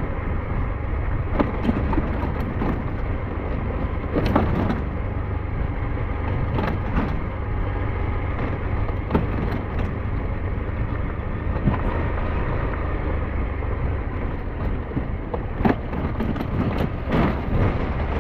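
SYM NHT 200 motorcycle riding along a rough dirt mountain road: a steady deep engine-and-wind rumble with irregular knocks and clatters scattered through.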